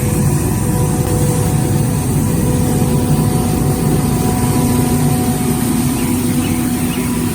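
Road sweeper's engine running steadily, with a constant whine over it.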